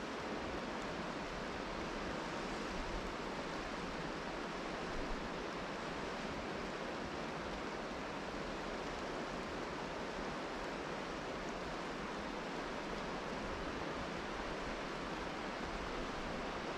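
Steady rain falling, mixed with the rush of a rocky river: an even, unbroken hiss.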